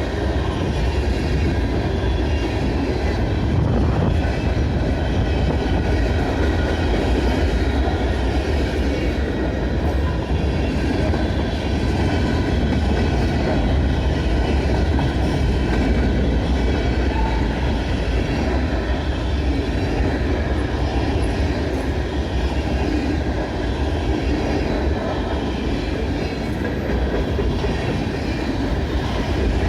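Freight cars of a mixed freight train rolling past: a steady loud rumble of steel wheels on the rails, with faint high-pitched ringing tones running through it.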